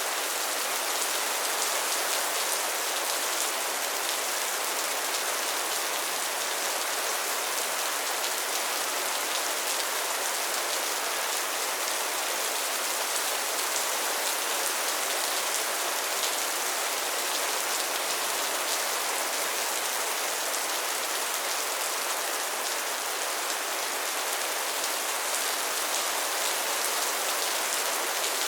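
Steady rain falling: an even hiss with a fine, dense patter of drops that keeps up throughout.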